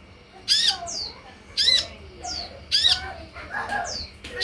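Sunbird song, a masteran for kolibri ninja. Sharp, high chirps come about once a second, each followed by a short falling whistle.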